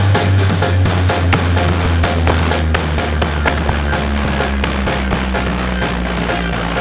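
Loud music played through a large carnival sound system (Blizzard Audio), with a heavy held bass line and a drum beat.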